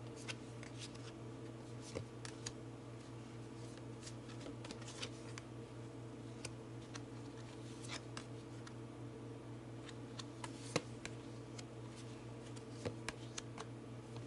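Tarot cards being handled and shuffled: faint, scattered soft clicks and rustles, with a sharper click about eleven seconds in, over a steady low hum.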